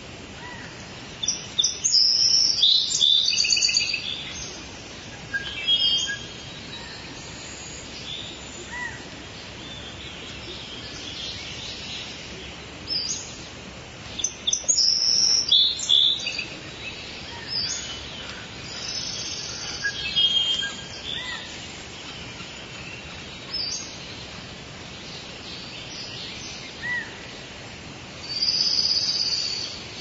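Birds chirping and singing in high-pitched bursts and trills, loudest near the start, around the middle and near the end, over a steady background hiss.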